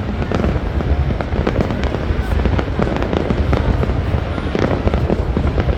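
Fireworks display going off without a break: a dense run of bangs and crackles over a steady low rumble.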